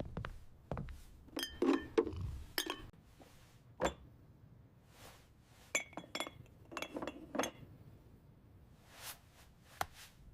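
Glass jars clinking and knocking together as they are handled: light taps with a short ring, coming in small clusters.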